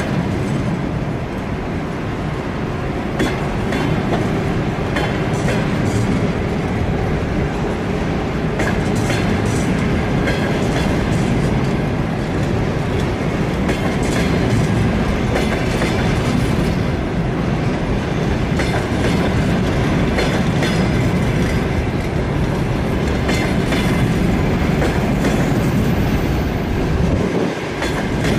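Passenger coaches of a long-distance train rolling past close by: a steady rumble of wheels on rail with frequent clicks as the wheels cross rail joints.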